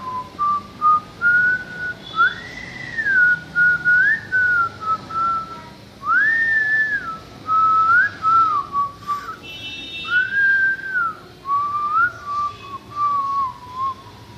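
A person whistling a slow tune in smooth phrases that slide up and down in pitch, each about a second long, with short breaks between.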